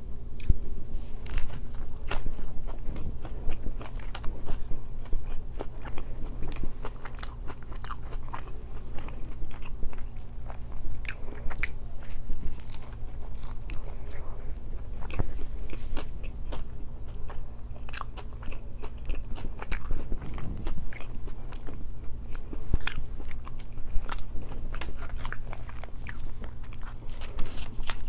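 Close-miked biting and chewing of a chicken wrap with crisp lettuce and shredded vegetables: many short crunchy clicks, over a low steady hum.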